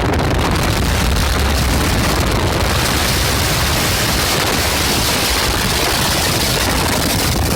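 Strong wind buffeting the microphone: a loud, steady rushing roar with a heavy low rumble.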